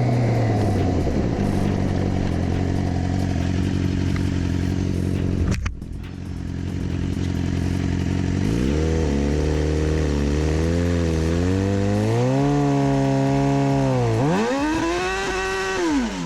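Sportbike engine running at a steady pitch, breaking off suddenly about six seconds in. It then revs up and down several times, with a big rise and fall near the end.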